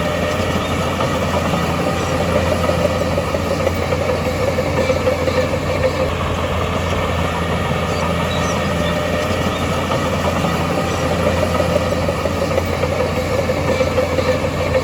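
Heavy construction machine's diesel engine running steadily, a continuous low drone that neither revs up nor stops.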